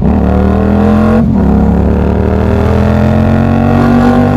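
Yamaha MT-07's CP2 parallel-twin engine breathing through an aftermarket full exhaust (Akrapovič headers, SC Project end can), pulling under acceleration. The engine note rises steadily, dips and breaks briefly about a second in as it shifts up a gear, then rises again.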